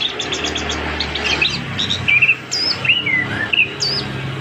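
Chestnut-capped thrush (punglor kembang) singing a long, varied song of rapid chirps and looping, slurred whistles, over a low steady hum.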